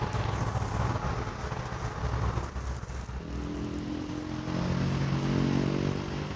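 UMS 260/C industrial ceiling fans running: a steady low hum with air noise, joined about three seconds in by a louder pitched hum of several steady tones.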